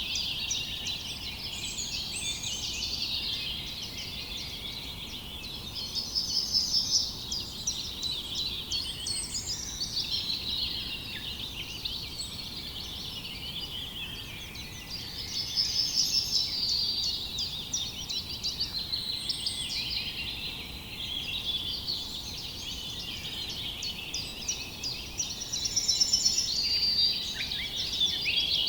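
A chorus of many songbirds chirping and trilling together without a break, with louder bursts of rapid trills swelling every ten seconds or so.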